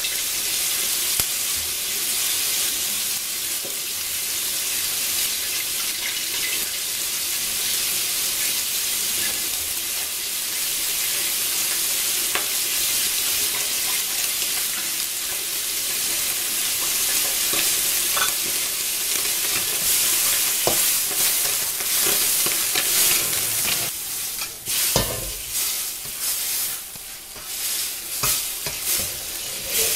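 Tomato and egg stir-fry sizzling and bubbling in a pan of hot liquid. From about 24 seconds in, a spatula stirs and scrapes through the food, and the sizzle rises and falls unevenly.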